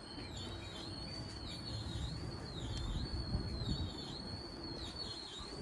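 FV-E991 hydrogen fuel-cell train moving slowly away under its own power, a low rumble of its running gear on the rails. Over it runs a high warbling tone that dips in pitch about once a second.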